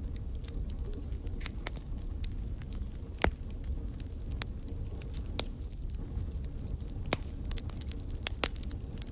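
Fireplace fire crackling: scattered sharp pops and snaps at irregular intervals over a steady low rumble of the flames, with one louder pop a few seconds in.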